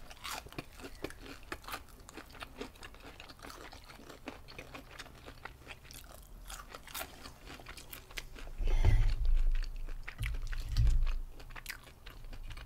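Close crunching and chewing of crispy fried shrimp, with many small crisp crackles. A few dull low thumps come about nine and eleven seconds in.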